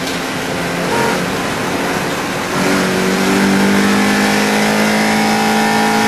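Mini Challenge Cooper race car's 1.6-litre engine: lighter running with road and wind noise, then about two and a half seconds in it comes back on load and pulls hard, its pitch rising steadily as it accelerates.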